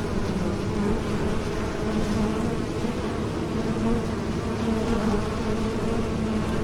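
Bees buzzing in flight: a steady, continuous drone of wingbeats with a low hum and a higher overtone.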